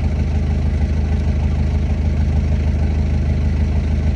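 A heavy diesel engine idling steadily at an even speed.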